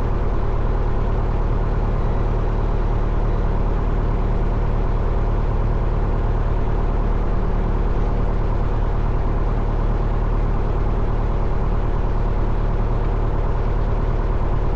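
Cessna 172 Skyhawk's four-cylinder Lycoming engine and propeller running steadily at low taxi power, heard from inside the cabin.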